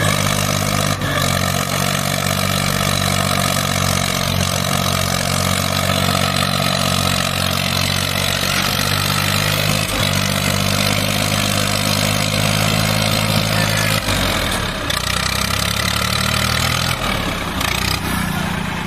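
Sonalika DI 740 tractor's diesel engine running steadily under load while pulling a loaded trolley. The engine note changes about fourteen seconds in and again near the end.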